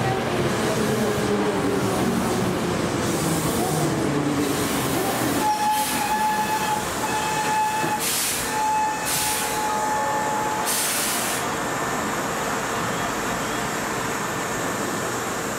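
A train running close by, its dense rumble easing about five seconds in. A steady high tone then sounds on and off for about five seconds, with a few short bursts of hiss.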